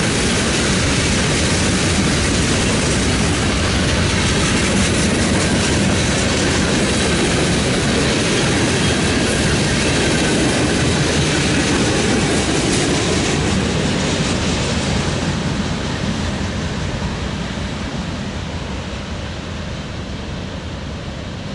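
Freight train's boxcars and flatcars rolling past, a steady, loud noise of steel wheels on the rails. About two-thirds of the way through it begins to fade and keeps fading as the end of the train passes and moves away.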